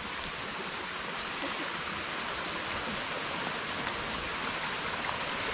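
Steady rushing of flowing water from a stream, an even hiss with no break.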